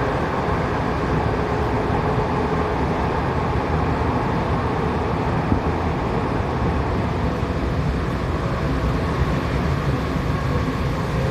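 Tokyo Metro 7000 series subway train running through a tunnel, heard from inside the car: a steady rumble of wheels on rail with a faint steady tone above it.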